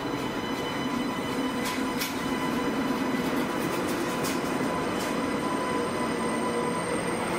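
SNCF TGV inOui double-deck (Euroduplex) high-speed train rolling slowly into the platform and past close by. A steady hum and whine of the running train carries a few sharp wheel clicks over rail joints.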